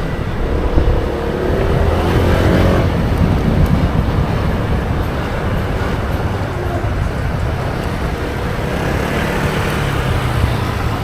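Motorbike engine running while riding, with steady road and wind noise; the engine note rises briefly about two seconds in.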